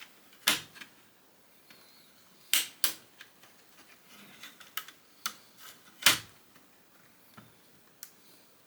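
Plastic LEGO bricks being handled and pressed together: a series of sharp clicks and snaps at uneven intervals, loudest about half a second in and again about six seconds in, with lighter taps between.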